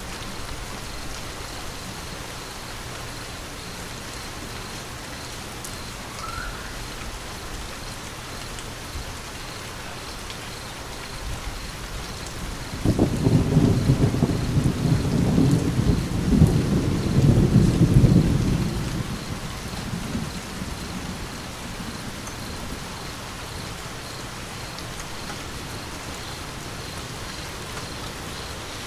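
Steady rain falling, with a thunderclap about halfway through that breaks in suddenly and rumbles low for about six seconds before fading away.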